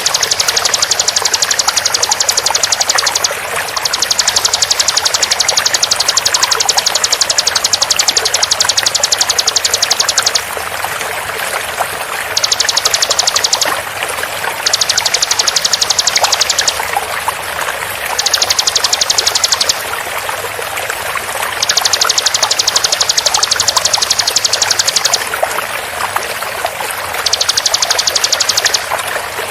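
Bar-winged prinia (ciblek) singing its rapid-fire 'tembakan' song: fast, tight runs of rapidly repeated high notes, each run lasting from under two seconds to about six, about eight runs with short pauses between. Under it runs a steady sound of flowing water.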